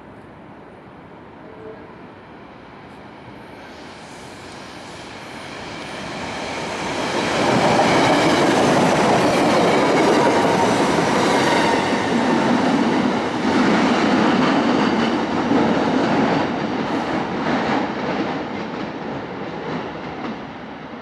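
A train passing along the tracks: it approaches and swells to a loud rumble, with wheels clicking over rail joints in the later part, then begins to fade near the end.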